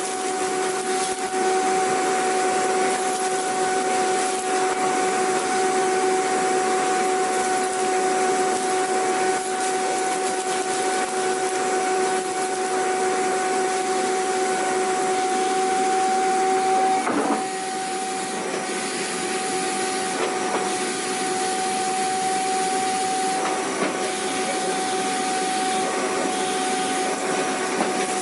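Vacuum cleaner running steadily: a constant motor whine over a rush of air. About two-thirds of the way through, the sound wavers briefly and then settles slightly quieter.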